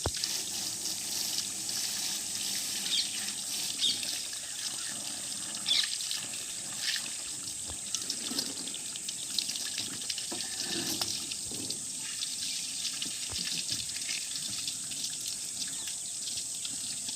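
Water running steadily, with a few brief splashes about four, six and seven seconds in.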